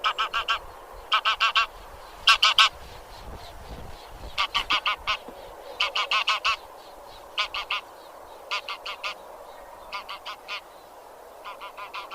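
Grey geese (genus Anser) honking in quick runs of four to six calls, a run about every second, over a steady faint murmur.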